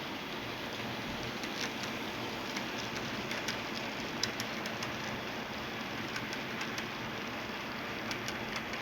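HO-scale model train running along the layout track: a steady rolling hiss with scattered sharp clicks.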